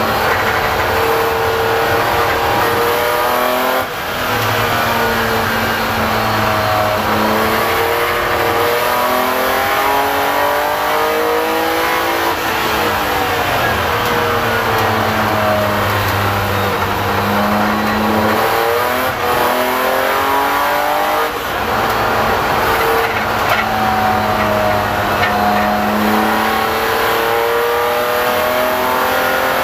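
BMW M3 race car's engine heard from inside the stripped cockpit, revving hard and rising and falling in pitch as it is driven through the gears. There are short lifts off the throttle about four seconds in and twice around twenty seconds in.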